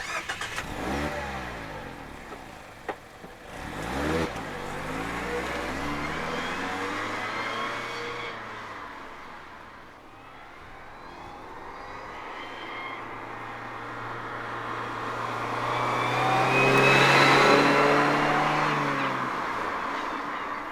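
Mazda ND Roadster (MX-5) 1.5-litre four-cylinder driving under load. The revs drop and rise sharply early on, then climb steadily. A high whine from the manual transmission builds over the engine and is loudest about three-quarters of the way through: an abnormal gearbox noise that the owner treats as a fault.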